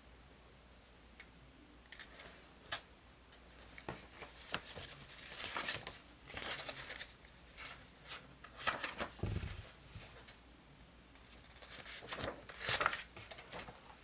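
Paper and stationery being handled at a desk: small clicks and taps, with longer scratchy rustles in the middle and again near the end.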